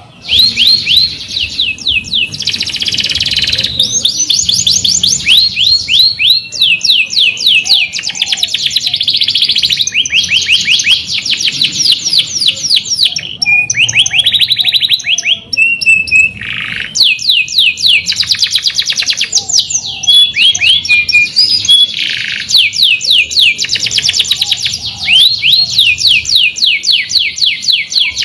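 Domestic canary singing: long rolling trills of fast, evenly repeated notes that sweep down in pitch, phrase after phrase with only brief pauses, mixed with a few sharp single notes.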